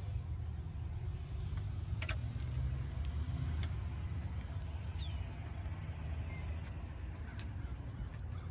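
2008 HMMWV M1123's 6.5-litre V8 diesel engine idling steadily with a low, even rumble.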